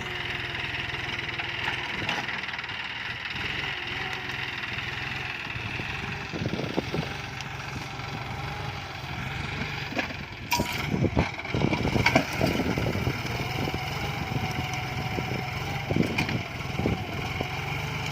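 John Deere tractor's diesel engine running steadily while pulling a six-disc plow through the field. Scattered knocks and clatter come through, the loudest stretch about ten to thirteen seconds in.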